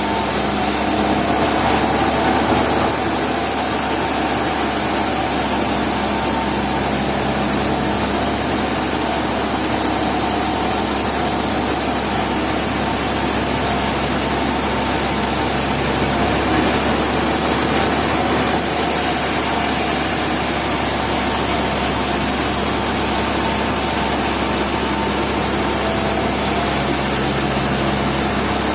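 A sawmill running steadily, its engine-driven saw cutting through a log in one long, even pass.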